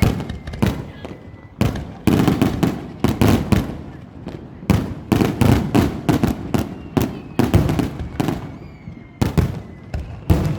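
Aerial fireworks shells bursting in rapid volleys: dozens of sharp bangs bunched in clusters, with short lulls between them.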